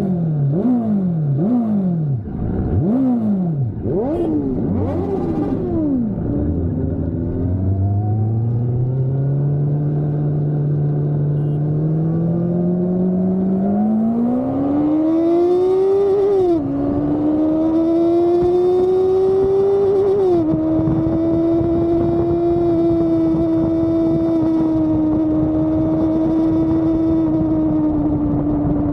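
Motorcycle engine revved in about four quick throttle blips, then pulling up steadily through the revs with two upshifts, then holding a steady high engine speed.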